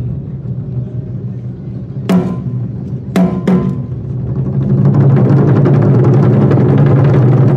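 Japanese taiko drums played by an ensemble: low drums rumble softly, three sharp, ringing strikes fall about two to three and a half seconds in, then fast, dense drumming swells into a loud roll from about halfway.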